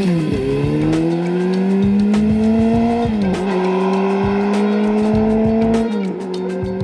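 Honda CB400Four's air-cooled inline-four engine through a Yoshimura short exhaust, accelerating through the gears: the engine note climbs slowly and drops at each upshift, near the start, about three seconds in and about six seconds in, then holds steady.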